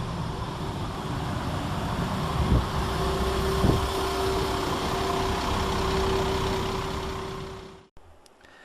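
West Midlands Railway Class 172 Turbostar diesel multiple unit running at the station: a steady diesel rumble, with a constant hum coming in about three seconds in. The sound cuts off abruptly near the end.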